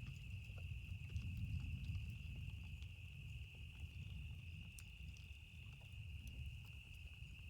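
Campfire crackling with scattered sharp pops, over a low rolling rumble of distant thunder and a steady high chirring of crickets.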